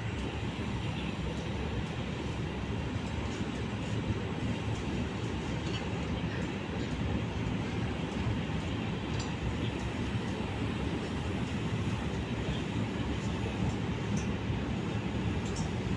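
Train running steadily: a continuous rumble with a few faint clicks scattered through it.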